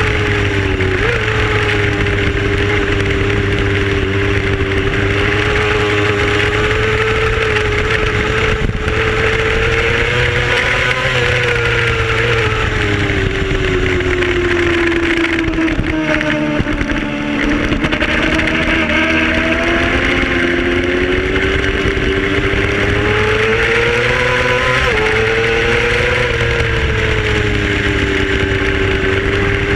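Racing motorcycle engine running at high revs under a steady rush of wind noise. The engine note rises and sags with the throttle, falls for a few seconds past the middle and then climbs again.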